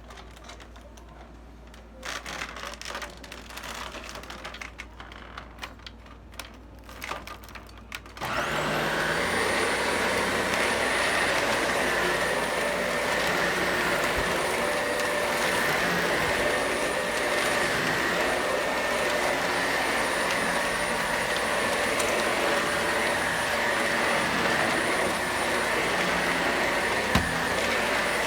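Quiet irregular handling noises, then a vacuum cleaner switches on about eight seconds in. Its whine rises briefly as the motor spins up, and it then runs steadily.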